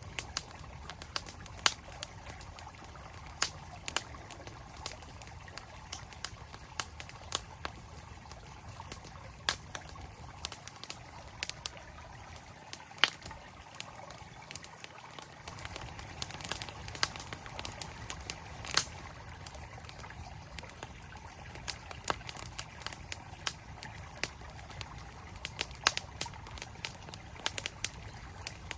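Campfire wood crackling, with irregular sharp pops several times a second, over the steady rush of a flowing mountain stream.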